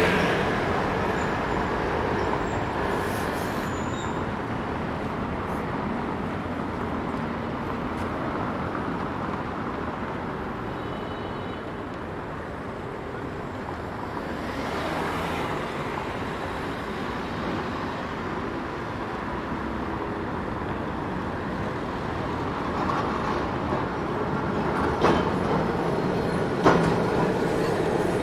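City street ambience: steady traffic and vehicle noise, with two sharp knocks near the end.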